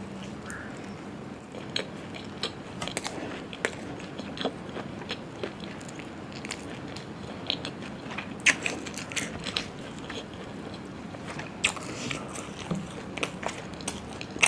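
Close-miked eating: a person biting and chewing food, with many short, irregular mouth clicks and smacks.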